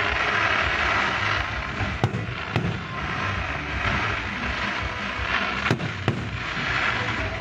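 Fireworks going off: a dense crackling hiss runs throughout, with four sharp bangs in two pairs, about two seconds in and again about six seconds in.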